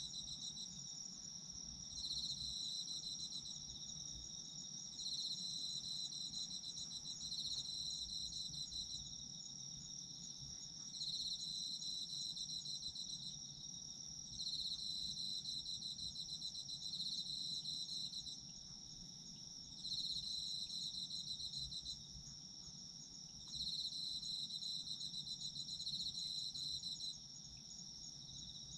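Autumn crickets chirping. One sings a continuous high trill while another repeats trilled phrases a second or two long with short pauses between them.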